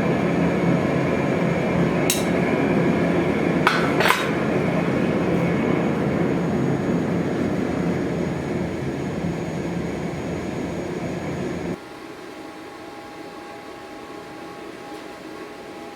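Steady roar of workshop equipment with three sharp metallic clicks between two and four seconds in. It stops abruptly near the end, leaving a quieter steady hum.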